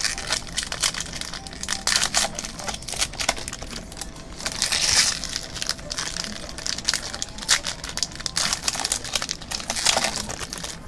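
Plastic and foil card-pack wrappers crinkling and tearing as trading-card packs are opened and the cards pulled out, with irregular crackles and short rustling bursts.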